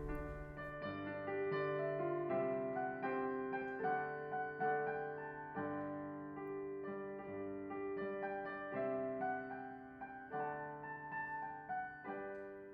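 Gentle piano or electric keyboard music playing slow sustained chords, fading out near the end.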